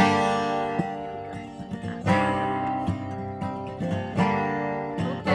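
Acoustic guitar playing an instrumental passage between sung verses: strong strummed chords about every two seconds, each left ringing, with lighter strums between.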